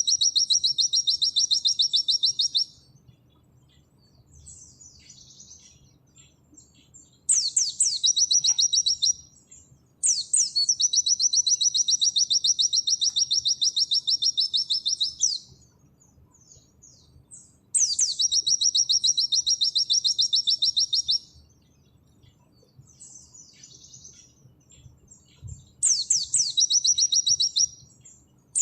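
White-eye (pleci) singing its 'nembak' song: five loud bursts of a very fast, even, high trill. Each burst opens with a few quick downward sweeps and runs about two to five seconds, with short pauses between.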